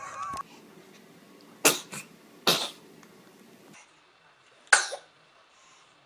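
A baby sneezing: three short, sharp sneezes, two close together in the middle and one more near the end.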